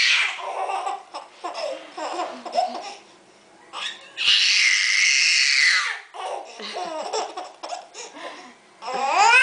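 A baby laughing in short repeated giggles. About four seconds in, and again near the end, there are longer, louder high-pitched bursts of shrieking noise.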